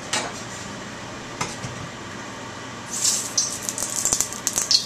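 A little cooking oil going into a hot wok, sizzling and crackling for about two seconds near the end, with a few clicks of metal on the wok earlier.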